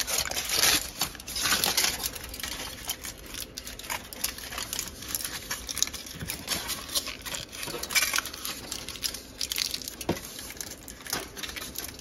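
Aluminum foil crinkling and rustling in irregular bursts as it is torn and pressed around the edge of a pie crust.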